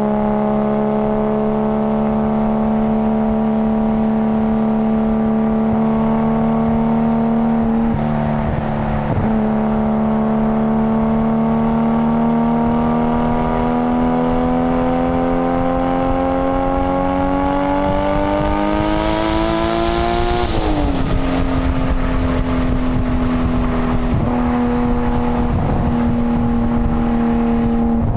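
Nissan Skyline GT-R (BCNR33) RB26 twin-turbo straight-six engine and exhaust running at steady revs, with two brief dips about eight and nine seconds in. The engine speed then climbs slowly for about ten seconds, drops sharply with a short hiss, and settles at steady revs again.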